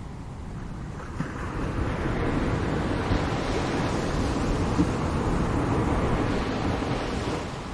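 Ocean surf: a wave washing in, its rushing hiss building from about a second in and fading away near the end.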